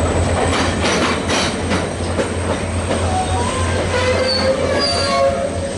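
VIA Rail passenger train at a station platform: a steady low rumble and hum, with a few metallic clanks about a second in and brief high squeals near the end.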